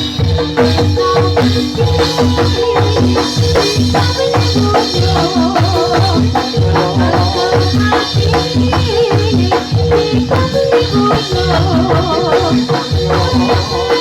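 Jathilan gamelan music: drums and struck percussion keep a fast, even rhythm under sustained metallic notes, with a wavering melody line above.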